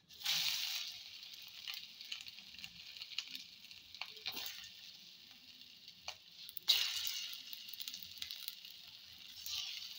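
Lumps of chicken-and-onion fritter batter dropped into hot white (refined vegetable) oil in a frying pan, each one setting off a burst of sizzling that settles into a steady frying hiss. The loudest bursts come right at the start and again about seven seconds in, with a smaller swell near the end.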